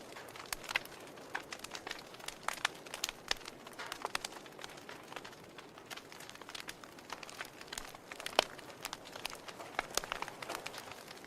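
Wood fire burning in a fireplace: a steady low hiss with irregular crackles and pops from the burning logs, one louder pop about eight and a half seconds in.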